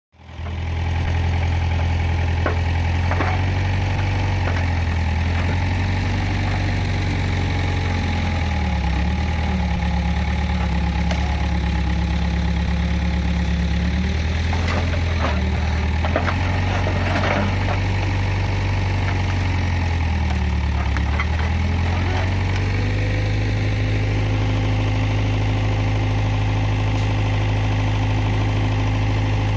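Case 580G backhoe loader's diesel engine running, its speed dipping twice under load and then settling back to a steady run for the last few seconds, with a few scattered sharp knocks over it.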